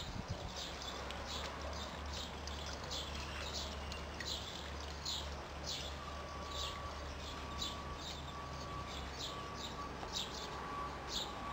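A small bird chirping over and over, short high chirps about twice a second, over a low steady hum. About halfway through, a thin steady whistle-like tone joins in.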